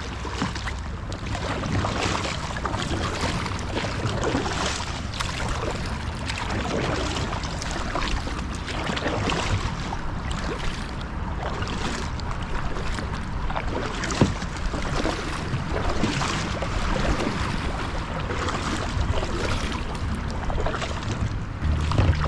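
A kayak moving along a river: steady water washing and wind buffeting the microphone, with a sharp knock about two thirds of the way through.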